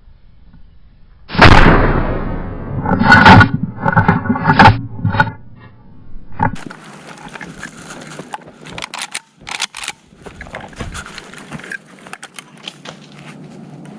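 Mossberg pump-action shotgun fired twice, about two seconds apart, each blast loud and echoing, with a few sharper cracks after. Then quieter rustling and scattered clicks.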